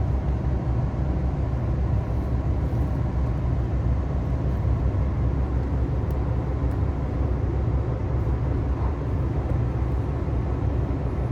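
Steady low rumble inside a diesel express train carriage, a JR Hokkaido KiHa 261 series railcar, with an even noise above it and no distinct knocks or clacks.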